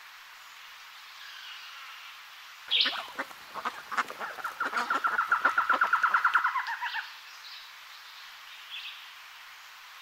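A bird calling: one sharp note, then a run of quick notes that speeds up into a fast chattering rattle for about two seconds before stopping, with faint birdsong in the background.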